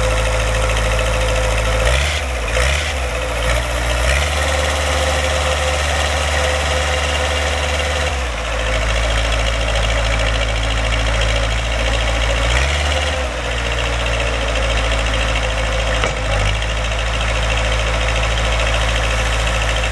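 Backhoe's engine running steadily, its low note shifting briefly a few times, about two, eight, thirteen and sixteen seconds in.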